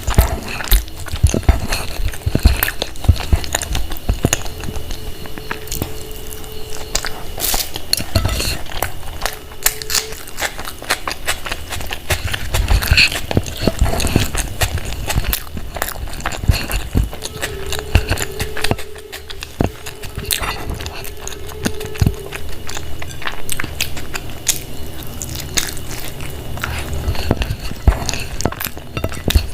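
Close-up eating sounds: steady chewing and biting with many irregular wet clicks and smacks, and occasional clinks of tableware.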